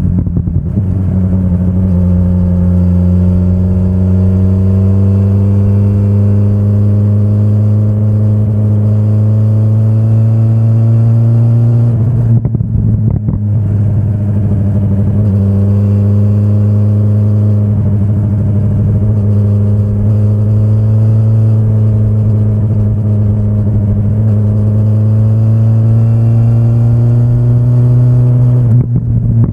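2025 BMW S1000RR's inline-four engine pulling at moderate revs under load, its pitch climbing slowly. The sound breaks briefly about 13 seconds in and again near the end, then carries on.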